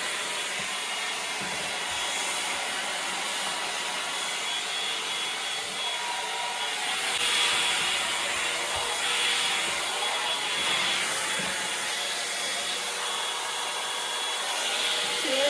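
Landot hot-air brush hair dryer running steadily, its fan blowing air with a faint motor whine.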